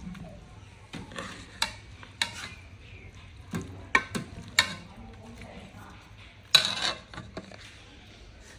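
Utensil scraping and clinking against cookware in a handful of short, separate strokes, the longest and loudest scrape about six and a half seconds in.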